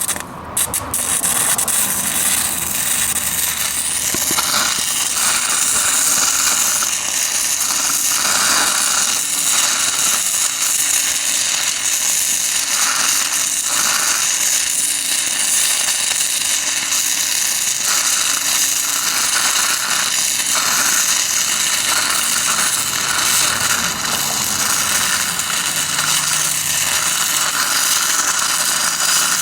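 Stick-welding arc from a 6010 electrode at 85 amps on steel plate, struck right at the start and then a steady, loud crackle and hiss.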